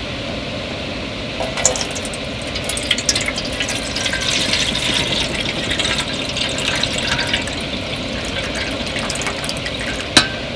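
Water pouring or splashing, a crackly rush that starts about a second and a half in and fades near the end, then one sharp click.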